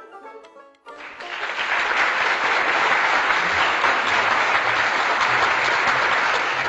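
Banjo music for about the first second, then dense applause that starts suddenly and goes on steadily.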